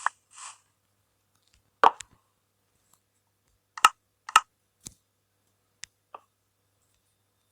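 About six short, sharp clicks at uneven intervals, with near silence between them; the loudest come about two and four seconds in.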